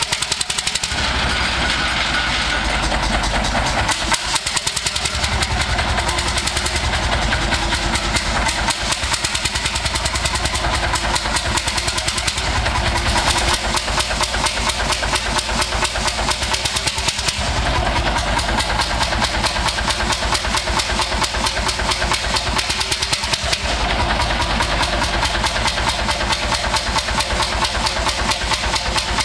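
Old engine running with a steady, rapid firing beat.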